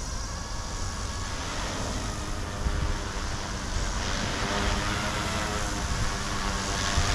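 E150 direct-drive brushless micro RC helicopter in flight: its motors and rotors whirring steadily with a pitch that drifts slightly, over a low rumble of wind on the microphone.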